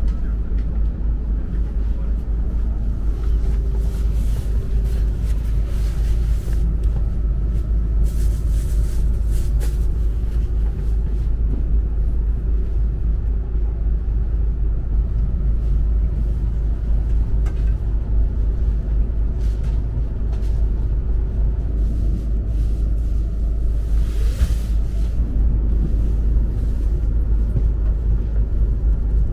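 Steady low rumble inside a Joetsu Shinkansen passenger car, with a few brief higher hisses over it.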